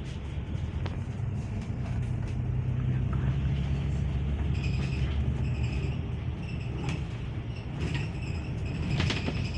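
Steady low rumble of a moving vehicle heard from inside. About halfway through, a faint high-pitched whine comes and goes.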